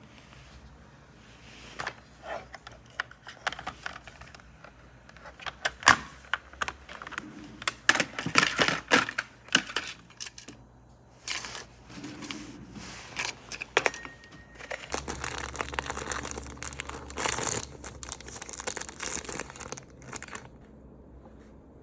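Crinkling and rustling of handled packaging, in irregular bursts with some tearing and sharp clicks, busiest in the first half.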